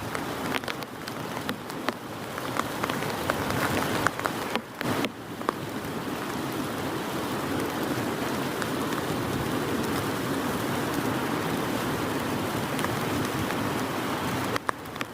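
Heavy rain falling, with many sharp individual drop hits in the first few seconds, then settling into a steady, dense downpour. There is a brief break of about half a second at the five-second mark.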